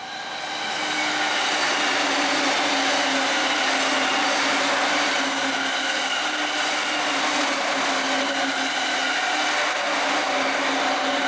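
Electric train passing close by: a steady rush of wheel and running noise with a steady motor hum, building up at the start and beginning to fade near the end.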